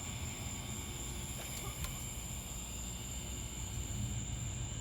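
Crickets chirring steadily outdoors, a single unbroken high tone, over a low background rumble, with a faint click a little under two seconds in.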